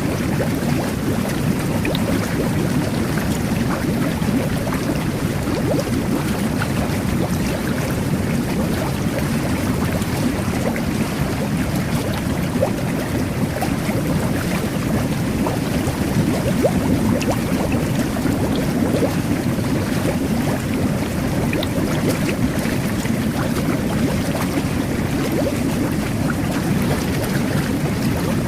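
Jet bath (whirlpool bubble bath) jets churning the bathwater: a steady low rush of water and air bubbles, with small pops and splashes scattered over it.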